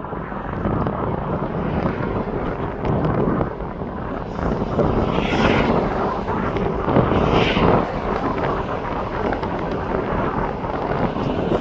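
Aircraft engine noise, a steady loud rush, with wind buffeting the microphone in two brief gusts about halfway through.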